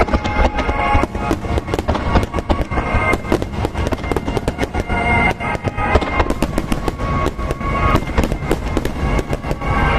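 Wide starmine fireworks display: a rapid, continuous barrage of shell bursts and crackling reports, several bangs a second, with music playing along underneath.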